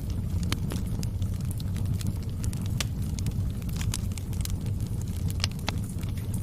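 Wood fire burning, a steady low rumble of flames with irregular sharp crackles and pops from the burning logs.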